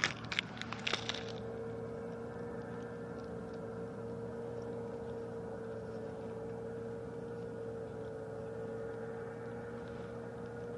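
A steady mechanical hum with one held tone, with a few sharp clicks in the first second or so.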